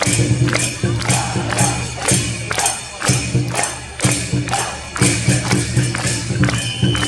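Nagasaki Kunchi boat-float festival music: drums and clanging metal percussion keep a quick steady beat, about three to four strikes a second, over a low sustained part that breaks off and comes back in phrases.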